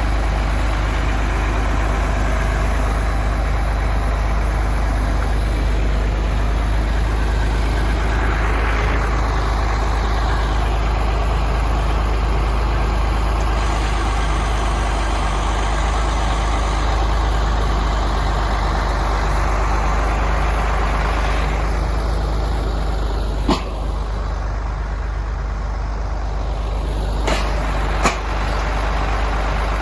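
Heavy truck diesel engine running steadily with a deep rumble. Three short, sharp clicks sound in the last third.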